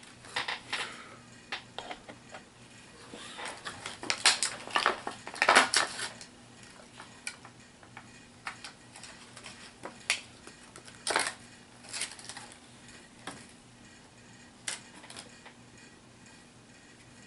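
Plastic collectible miniatures and their booster packaging being handled: irregular clicks, clatters and crinkles, busiest about four to six seconds in.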